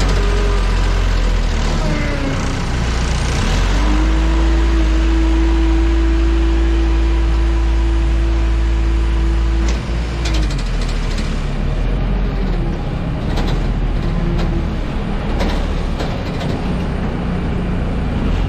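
Airport ground service vehicles running with a heavy low rumble. A steady whining tone holds from about four seconds in until about ten seconds, then stops, and a few sharp knocks follow.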